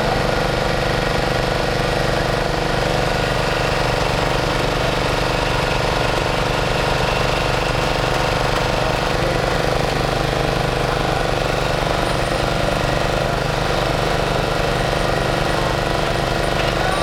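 An engine idling steadily close by, a constant low hum with a fast even throb.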